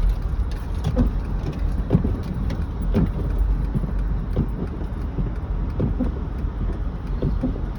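Car driving on a slushy, snow-covered road, heard from inside the cabin: a steady low rumble of tyres and road noise, with irregular light knocks throughout.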